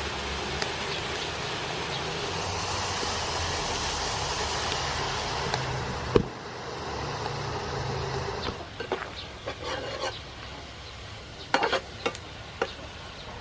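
Clam meat and green peppercorns sizzling in a hot wok as they stir-fry, a steady hiss that drops away after about eight seconds. Then a metal spatula knocks and scrapes against the pan several times.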